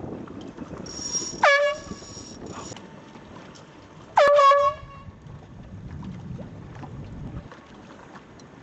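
Two short air-horn blasts, the first about a second and a half in and the second nearly three seconds later, each sliding down in pitch at the start before holding a steady tone: the sound signals that mark a sailboat race's starting sequence.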